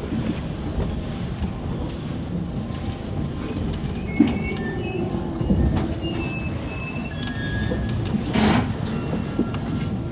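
Sagami Railway 10000 series electric train running slowly into the terminal, heard from inside the front car: rumbling with clicks from the wheels on the track, a low whine that falls in pitch as it slows, and short high squeals. A short hiss comes near the end.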